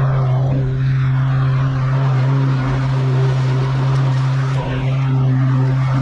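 Gravely zero-turn lawn mower's engine running steadily at a constant pitch, a loud even drone.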